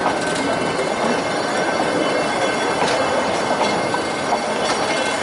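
Nilgiri Mountain Railway toy train heard from on board, its wheels running steadily on the rails, with a thin steady squeal and a few faint clicks.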